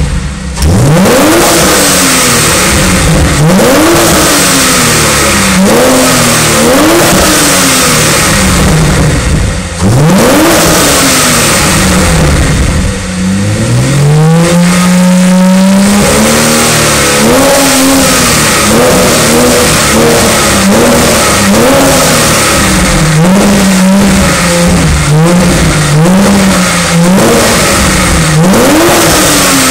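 Porsche 997 Carrera flat-six running through an aftermarket Kline exhaust, revved again and again: sharp climbs in pitch that fall back, one longer climb held for a couple of seconds about halfway through, then a run of quick short blips.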